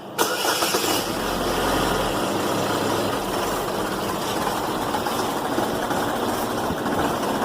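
A 2011 Chevrolet Equinox engine cranks and catches just after the start, then runs steadily. The engine has a failing camshaft position actuator solenoid (code P0010), which gives it drivability problems.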